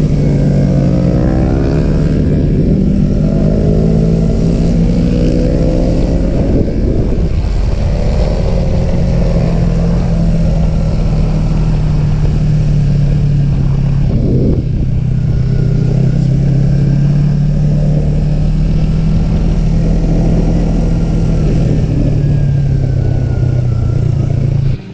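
Yamaha R3 sport motorcycle's engine running hard at high revs, its pitch climbing over the first couple of seconds and then holding fairly steady with small dips. The sound cuts off suddenly at the end.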